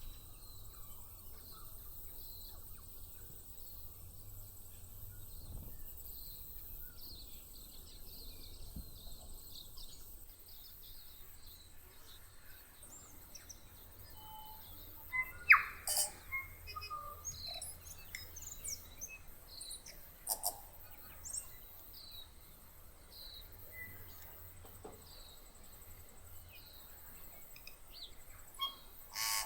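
Many faint, high bird chirps, then from about halfway a male tūī singing: scattered loud notes, sharp clicks and quick pitch strokes in short phrases.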